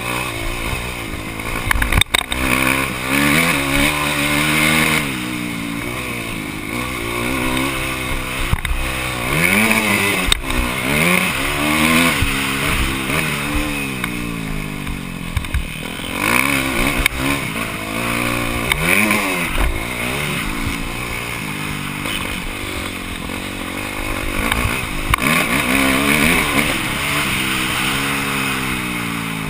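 Motocross motorcycle engine heard on board, revving up and dropping back again and again as the throttle is worked, with an occasional sharp knock.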